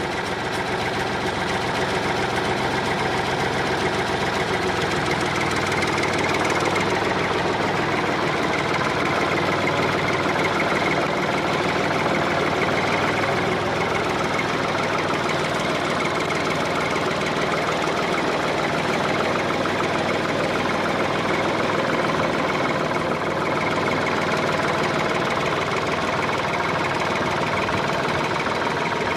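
Homemade model tractor running steadily, its motor and drive giving an unbroken, engine-like running sound that holds the same level throughout.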